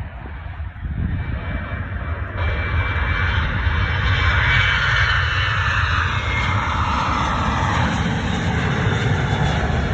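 Jet airliner's engines at full takeoff power, a broad roar that builds over the first few seconds and then holds loud, with a whine sliding down in pitch as the aircraft passes.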